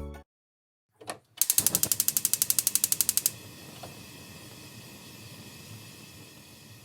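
A brief mechanical sound, then a rapid, regular run of clicks, about ten a second for roughly two seconds, like a ratchet being worked, followed by a faint steady hiss.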